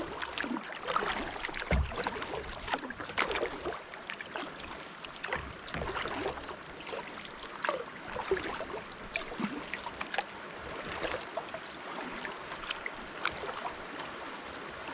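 Creek water running over a small rapid and waterfall, a continuous rush dotted with irregular splashes and drips. There is a single low thump about two seconds in.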